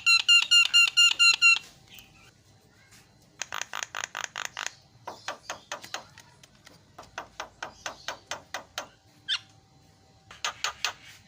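Javan myna calling in rapid repeated series: a quick run of clear, ringing pitched notes in the first second and a half, then several runs of fast, harsh chattering notes separated by short pauses, with a lone note about nine seconds in.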